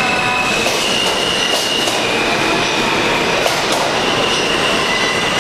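New York City subway train running, a steady loud rumble with high-pitched wheel squeal that shifts up and down in pitch.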